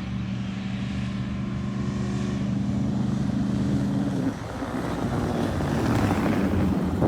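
Vehicle engine running at a steady pitch. About four seconds in, the steady tone breaks up into a rougher noise that grows louder.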